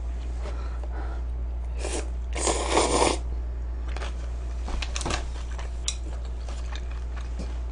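A few light clinks of tableware and a short rustle or scrape about two and a half seconds in, over a steady low electrical hum.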